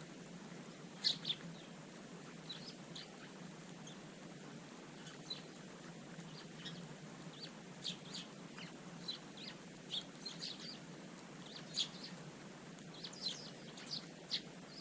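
Small garden birds chirping: many short, high chirps scattered irregularly, with the loudest ones about a second in and again near the end.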